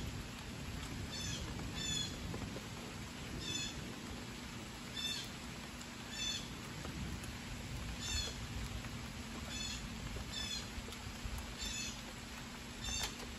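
A bird repeating a short, high, downward-stepping call about once a second, over a low steady background rumble.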